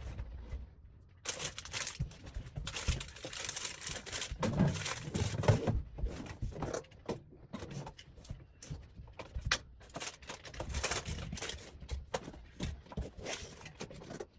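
Food containers and packages being handled and set into a camper fridge: irregular knocks, clunks and rustling.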